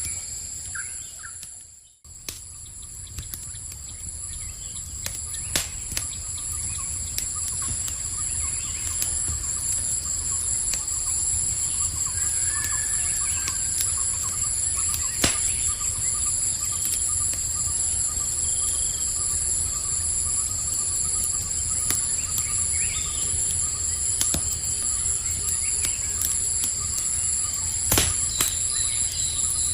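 Night ambience of insects trilling steadily and high over the crackle of a wood campfire: scattered sharp pops and a low rumble, with a few short bird chirps. The sound dips almost to silence about two seconds in, then fades back up.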